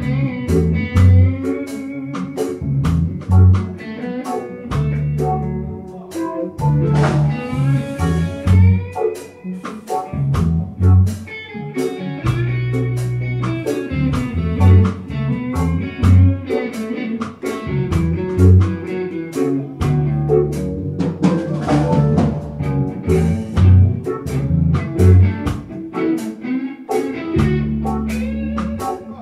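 Live band playing: guitar, bass and drum kit keeping a steady beat, with bending melodic lines on top.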